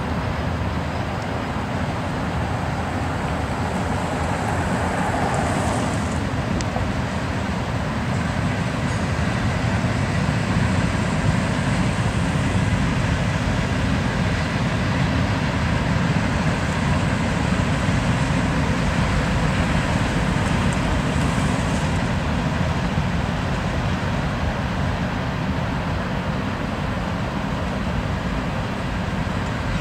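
Freight train rolling past: a steady, continuous rumble of the cars on the track.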